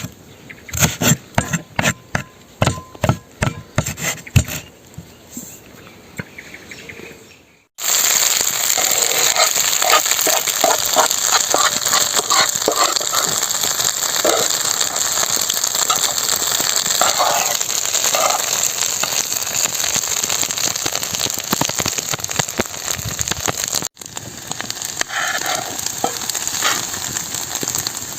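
Food frying with a steady sizzle in a hot pan from about eight seconds in. Before that, a run of sharp knocks about two a second that die away.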